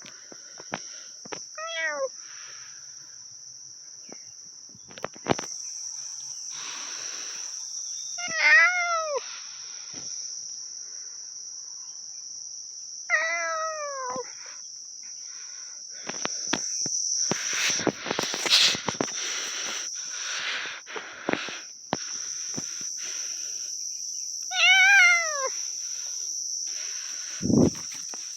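Four short meows, each falling in pitch, spaced several seconds apart, over the steady high chirring of crickets. A burst of rustling and handling noise comes about two-thirds of the way through, and a short low sound comes near the end.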